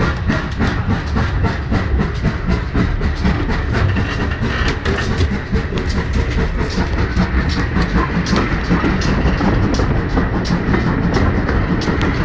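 Inside a moving heritage railway carriage: steady loud rumble of the wheels running on the track, with many short clicks and knocks from the wheels and the coach.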